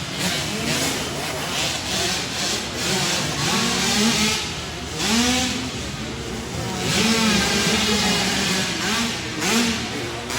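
Several small two-stroke 65cc dirt bike engines revving up and down as the bikes race, their pitches rising and falling and overlapping.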